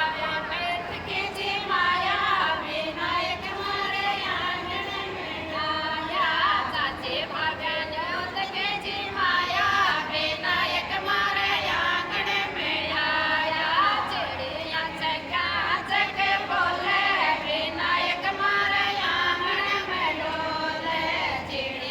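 A group of women singing a Rajasthani Marwari folk bhajan together in repeated short melodic phrases, over a regular percussive beat.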